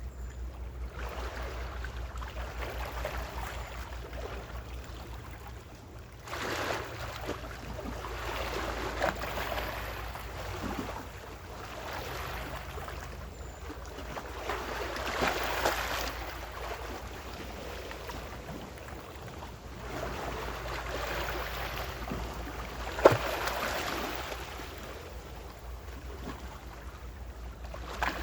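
Small ocean waves washing onto the shore in swells every few seconds over a steady low rumble, with one sharp click a little over three-quarters of the way through.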